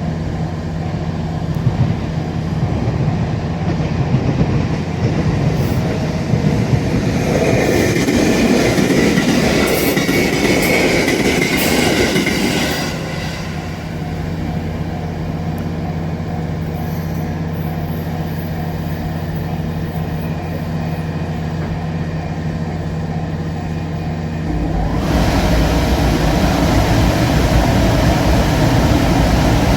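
A passing train: a steady low hum runs throughout, with louder wheel-and-rail noise and a squealing band from about seven to thirteen seconds in. The low rumble grows stronger about twenty-five seconds in.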